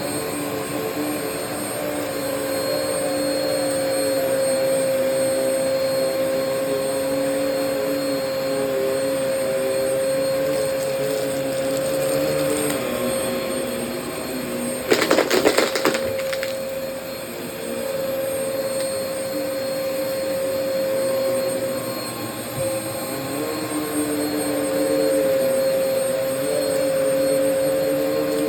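Vacuum cleaner running over carpet: a steady motor whine with lower tones that waver in pitch as it is pushed back and forth. A brief loud rattle about halfway through.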